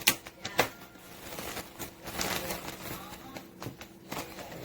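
A rubber band being stretched and snapped around a mini watermelon: a few sharp snaps and clicks, the loudest just after the start, with rustling as the band is worked over the rind.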